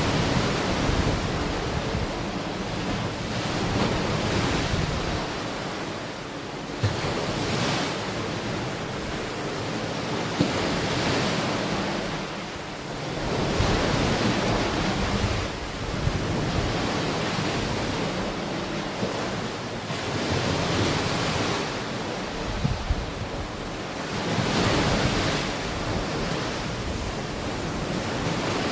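Ocean waves breaking and washing onto a beach in slow swells that rise and fall every few seconds, with wind rumbling on the microphone.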